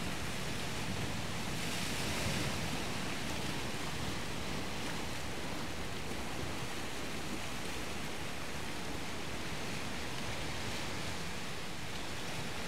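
Sea surf washing steadily against the shore, briefly a little louder about two seconds in.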